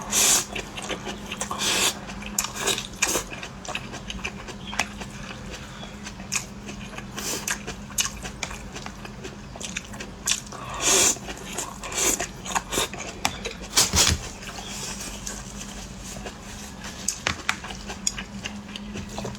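Close-up eating sounds: a person chewing with wet mouth smacks and clicks, and a few louder slurps of hot food.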